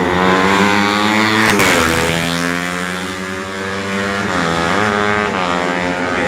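A 125 cc four-stroke underbone race motorcycle engine at high revs; its pitch drops sharply about a second and a half in, then climbs again, with two short dips near the end.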